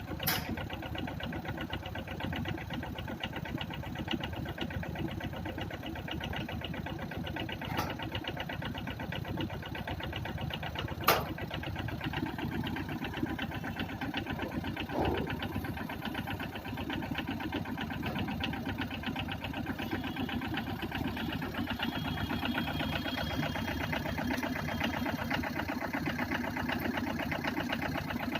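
Engine idling steadily with an even, rapid beat, broken by a few short sharp clicks, the loudest about eleven seconds in.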